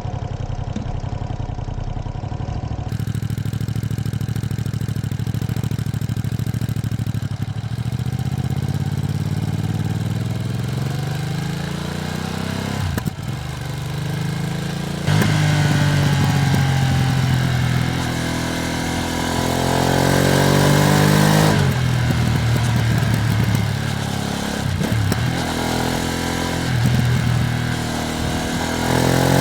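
Ducati Streetfighter V2S V-twin motorcycle engine on the move, being run in. It holds steady for a few seconds, then pulls up through the revs several times, with short dips between pulls as it shifts gear. It gets louder about halfway through.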